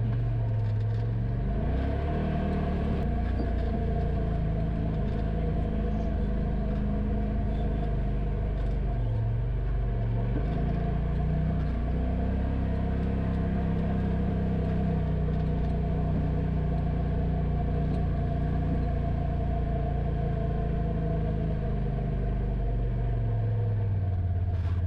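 Polaris RZR Pro XP side-by-side's engine running steadily with a low rumble, its engine speed rising and falling a few times.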